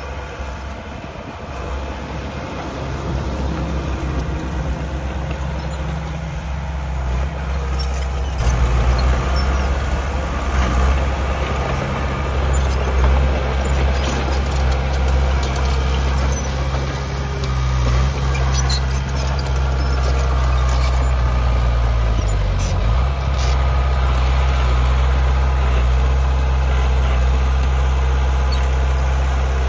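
Heavy diesel engine of earthmoving machinery running under load, growing louder over the first several seconds and stepping up about eight seconds in, with a brief drop in pitch a little past two-thirds through.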